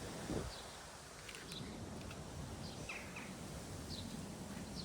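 A bird chirping, with short high chirps repeating every half second to a second over faint outdoor background noise.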